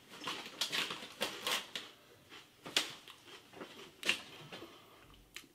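Crispy pork rinds (chicharon) being chewed: irregular crisp crunches that thin out toward the end.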